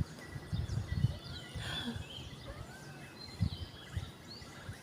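Wild birds chirping and calling faintly: many short rising and falling notes overlapping, over a few low bumps of noise on the microphone.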